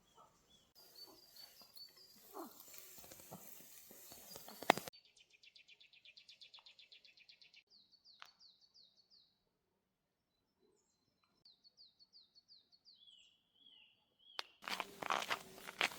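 Small birds singing: a fast, even trill of roughly a dozen notes a second, then runs of short, high, down-slurred chirps. Before the song there is rustling ending in a sharp click, and loud rustling starts near the end.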